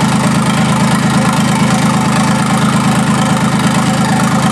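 QC385 three-cylinder diesel engine idling steadily, running cold and warming up just after its first start.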